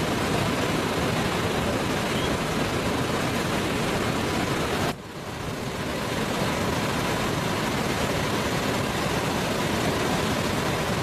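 Steady rushing roar of a large waterfall, an even wash of noise that breaks off sharply for a moment about five seconds in and then resumes.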